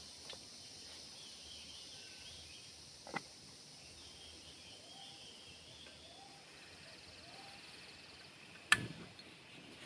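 Tropical forest ambience: a faint, steady high insect drone with soft bird calls over it, a couple of light clicks, and one sharp knock near the end, the loudest sound.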